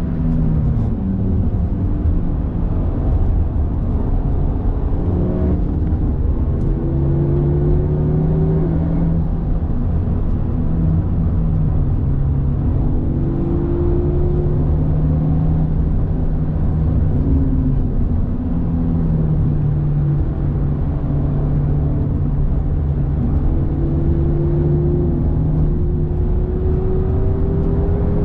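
Honda Civic Type R FK8's turbocharged four-cylinder engine at speed, heard from inside the cabin. Its pitch climbs under full acceleration and drops back a few times as it changes gear, over a heavy rumble of road and tyre noise.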